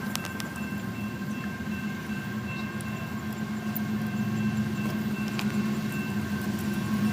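Approaching freight train led by two diesel locomotives, a GE ES44DC and an EMD SD70M-2. Their engines' low drone grows steadily louder.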